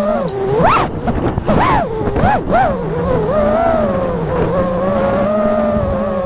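FPV quadcopter's brushless motors whining in flight, the pitch shooting up and dropping back several times in the first three seconds with bursts of throttle, then holding fairly steady.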